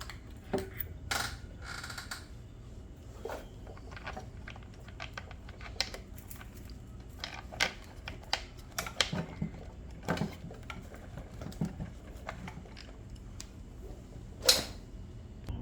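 Irregular small clicks and taps of plastic engine covers and screws being handled and fitted back onto a Ryobi small-engine tool, with one sharper knock near the end.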